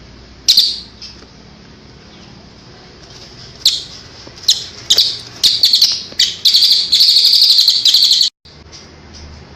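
A songbird giving harsh, rasping calls: one sharp call about half a second in, a string of short rough calls from about four seconds in, then a long rapid rattling call that cuts off suddenly near the end.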